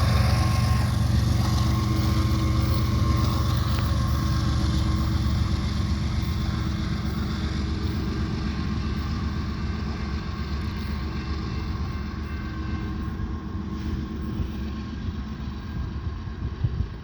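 BNSF coal train rolling past: a steady low rumble of wheels and cars that slowly fades as it moves away, with a few thumps near the end.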